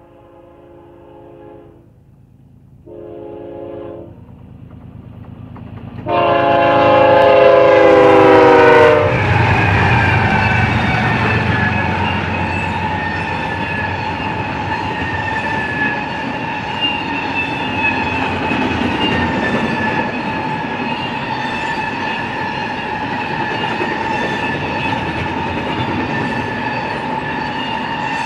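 Train horn on a GE ES44DC diesel locomotive sounding for a grade crossing: a blast ending about a second in, a short blast, then a long, loud blast whose chord drops in pitch as the locomotive passes. The horn gives way to the low rumble of the locomotives and then the steady rolling of double-stack intermodal container cars, with ringing wheels and clicking over the rail joints.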